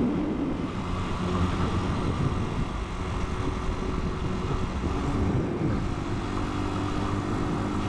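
Italika 250 motorcycle engine running steadily under way, with wind and road noise. About five seconds in, the engine pitch dips and then climbs again.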